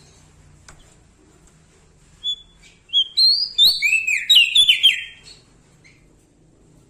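Prenjak daun singing: a single short note about two seconds in, then a loud, fast run of sweeping, bending whistled notes lasting about two seconds.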